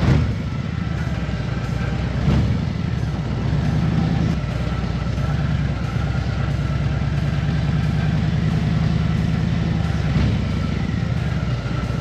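2020 Harley-Davidson Road Glide Limited's Milwaukee-Eight 114 V-twin running steadily under way, a low rumble with wind and road noise over it.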